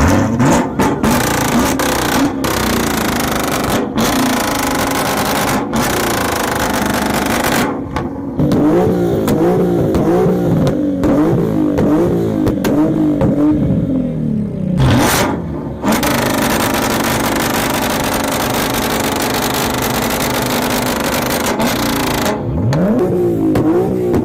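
A car engine with a loud exhaust revving hard over and over, its pitch bouncing up and down in quick blips. In the second half it is held high at a nearly steady pitch for several seconds, and the sound breaks sharply several times.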